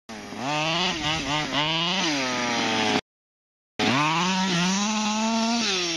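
HPI Baja 5B's small two-stroke gas engine revving in quick blips, rising and falling several times. After a gap of total silence of under a second, about three seconds in, it is held at a higher, steady rev that drops back near the end.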